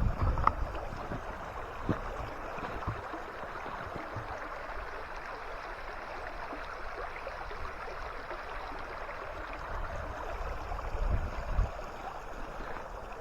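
Creek water running with a steady rushing sound, with a few soft low thumps near the start and again toward the end.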